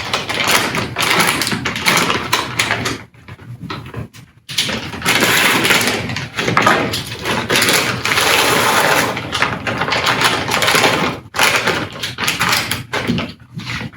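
A spoon stirring and scraping through corn and soup ingredients in a slow cooker, a dense run of scraping and knocking with a short pause about three seconds in.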